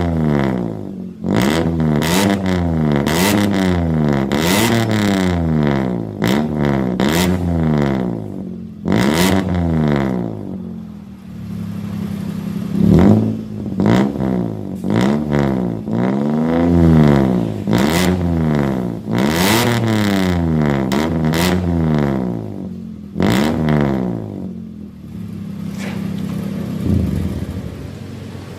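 Toyota Avanza's four-cylinder engine being revved through a newly fitted racing exhaust: repeated quick throttle blips rising and falling about once a second, with two short spells of steady idle between.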